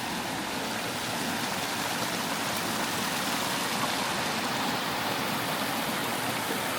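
A large river rushing steadily over rocks at a crossing.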